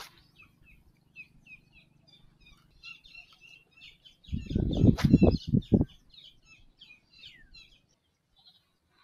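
Small birds chirping in quick, overlapping calls, with a loud low rumble and a sharp click lasting about a second and a half near the middle.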